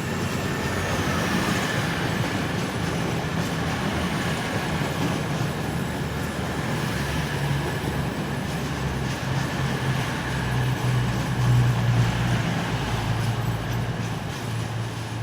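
Class 222 Meridian diesel multiple unit pulling out under power, its underfloor diesel engines droning steadily as the carriages go by. The drone is loudest about two-thirds of the way through. A faint high whine is heard in the first few seconds.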